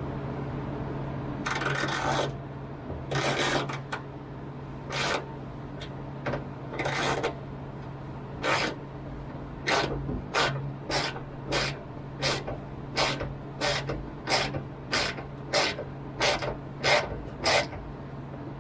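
A 1/4 inch ratchet clicking in short back-and-forth strokes while driving a threaded insert into plywood. The strokes come a few at a time at first, then settle into a regular run of about one and a half to two a second.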